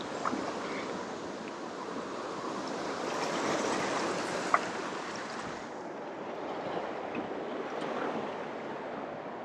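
Waterfall rushing: a steady roar of falling water that grows a little louder a few seconds in, then eases.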